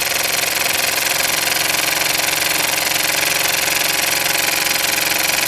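Small homemade steam engine running fast and steady: a rapid, even beat over a hissing background.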